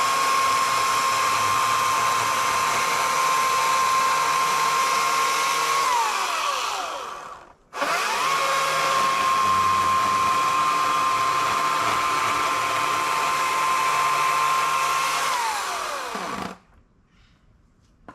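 EGO CS2005 battery chainsaw's electric motor running with a steady high whine. It winds down about six seconds in, starts again almost at once, then runs steadily until it winds down once more near the end.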